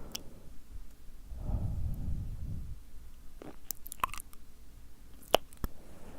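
Close-miked ASMR mouth sounds: wet, sticky tongue and lip clicks, several sharp separate clicks with a soft breathy rush between them.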